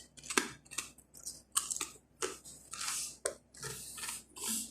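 Crunching and chewing of fried, crisp kubus flatbread close to the microphone: a rapid, irregular series of crisp crunches, about two a second.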